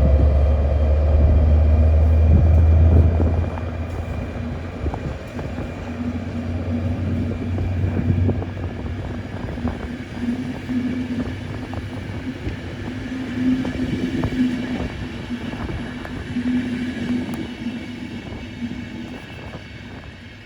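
Class 223 diesel-electric locomotive hauling a passenger train: a loud, deep engine drone for the first three or four seconds, then the train running on with scattered clicks from the wheels on the rails, gradually fading away.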